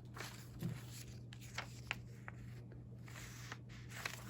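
Paper pages and newsprint clippings in a ring binder rustling and crinkling as they are handled and turned, with a few light clicks and a soft thump about a second in, over a steady low hum.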